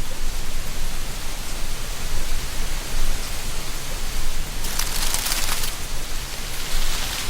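Wind blowing through tree canopy, a steady rushing hiss with dry leaves rustling; a brighter gust of rustling swells about two-thirds of the way through, lasting about a second.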